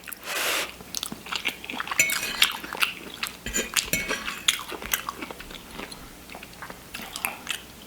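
A person chewing shepherd's pie (ground beef, mashed potato and vegetables), with many small wet mouth clicks throughout.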